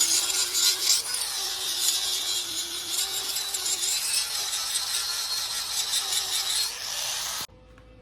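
Angle grinder grinding down a steel weld on an anvil face, its high whine wavering in pitch as the disc is loaded against the metal. It cuts off abruptly near the end.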